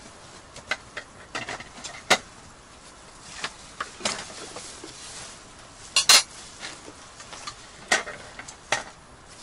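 Metal utensils clinking and scraping against a frying pan, with a handful of sharp clanks; the loudest is a double clank about six seconds in.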